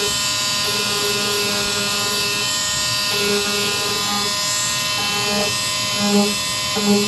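Small electric sander running with a steady whine. A lower hum comes and goes over it, more often towards the end.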